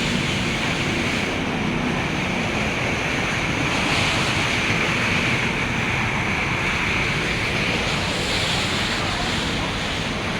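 A steady rushing noise with a hiss on top, swelling slightly a couple of times.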